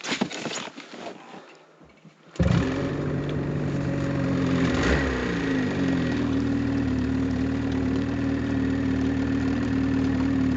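Gas-powered winch's small engine starting up about two seconds in and running steadily under load as it hauls a stuck snowmobile on a rope. Its pitch dips briefly a few seconds in, then holds steady.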